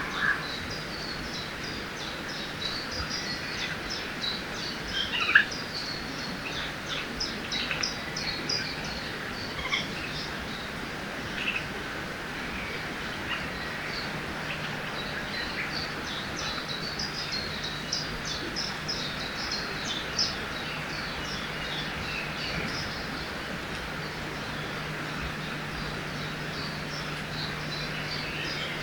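Forest ambience: many small birds chirping and twittering over the steady rush of a nearby river, with one louder call about five seconds in.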